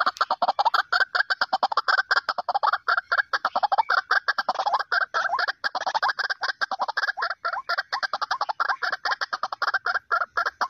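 White-breasted waterhen (ruak-ruak) calling: a fast, unbroken run of repeated notes, several a second, in a recording played as a lure to draw waterhens in.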